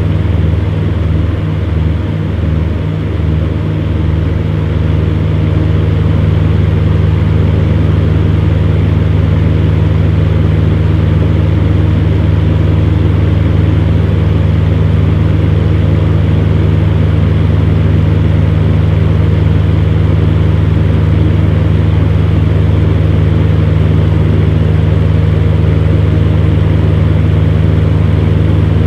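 Electric fan heater running: a steady low hum with an even whir of blown air. The hum pulses slightly for the first few seconds, then holds steady.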